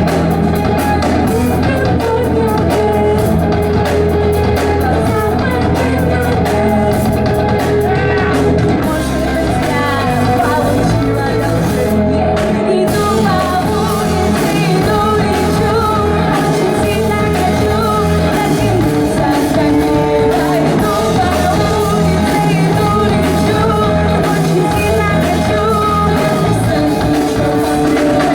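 A live rock band playing a song: a singer over electric guitar, bass and drums, at a steady loud level.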